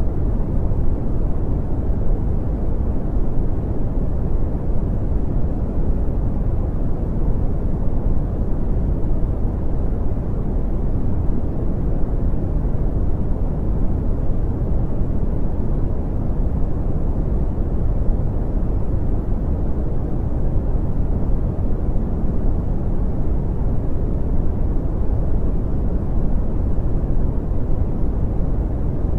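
Brown noise: a steady, even, deep rushing hiss, heaviest in the bass and rolling off toward the highs, with no change or events.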